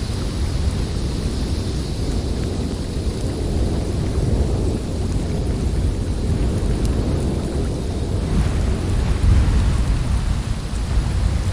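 Snowstorm wind blowing steadily, a deep rushing noise that swells briefly about nine seconds in.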